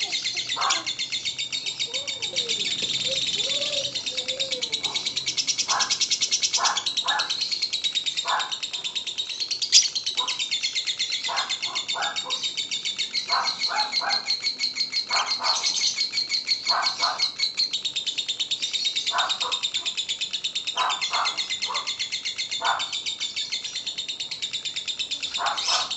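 Lovebird singing its long, unbroken rapid chattering trill (the 'ngekek' song), with short lower chirps breaking in every second or so.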